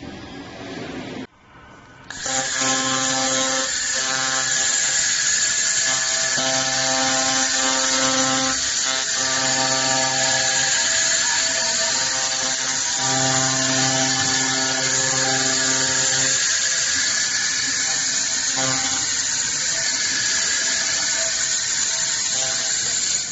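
Handheld fiber laser welding head in operation: a loud, steady hiss with a pitched buzz that comes and goes in stretches of a second or more. The hiss starts suddenly about two seconds in.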